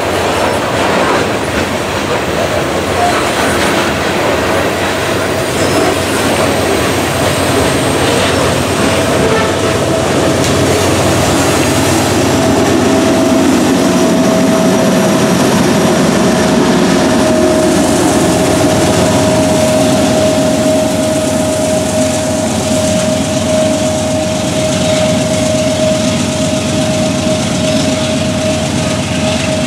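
Freight train rolling past at close range, covered hopper cars and a Union Pacific locomotive, wheels clacking over the rails. A steady high whine joins the rumble about a third of the way in and holds.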